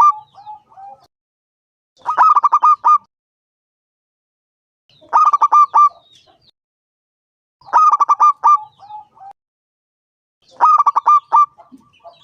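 Zebra dove (perkutut) cooing: a phrase of quick staccato coos, run together and ending in a softer trailing note, repeated about every three seconds. Four full phrases follow the tail of one at the start.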